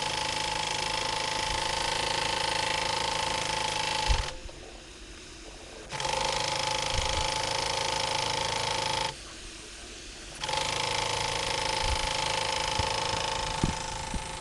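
Scratch-built Stuart Turner steam engine running under steam, a steady mechanical hiss with a held tone through it. The sound drops away sharply twice, for a second or so each time, about four and nine seconds in.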